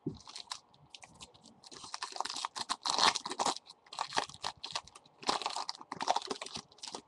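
Trading-card pack and cards being handled: a run of irregular crinkling, crackling rustles that grows loudest about three seconds in and again around five and a half seconds.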